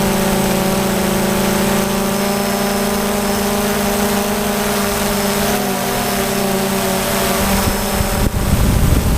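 DJI Phantom quadcopter's motors and propellers giving off a steady, pitched whine. About two-thirds of the way through the pitch shifts, and near the end a loud low rumble comes in.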